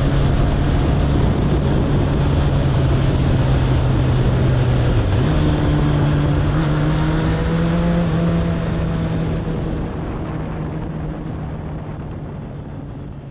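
Suzuki Bandit 1200's inline-four engine running at a steady cruise under road and wind noise. The engine note steps up slightly in pitch about five seconds in, and the sound fades out over the last few seconds.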